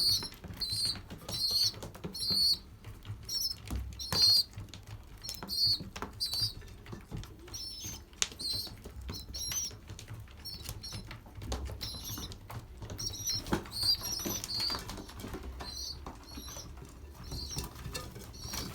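Young racing pigeons, about 30 days old, squeaking with short high peeps again and again while pecking grain from feeding trays, with many sharp clicks of beaks on grain and tray.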